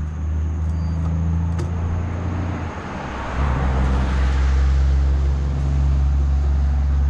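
Steady low rumble of road and wind noise from a moving e-bike, dipping briefly about three seconds in, with a swell of tyre hiss from passing traffic in the middle.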